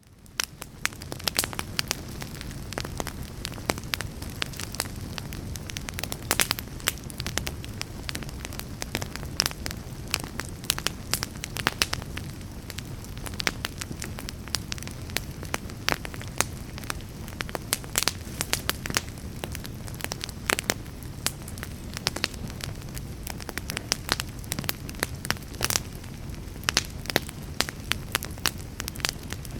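Fireplace fire burning steadily: a low rumble of flames with frequent, irregular crackles and pops. It fades in over the first second.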